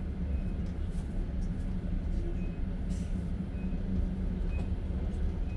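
Passenger train carriage in motion, heard from inside: a steady low rumble of the running train, with scattered faint clicks and knocks.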